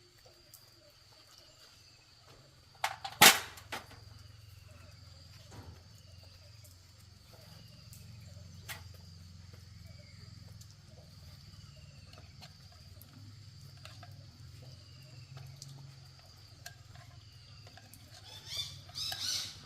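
One sharp, loud knock about three seconds in, followed by faint scattered ticks, and a short burst of rapid clicking near the end. A faint steady high whine and a low hum run underneath.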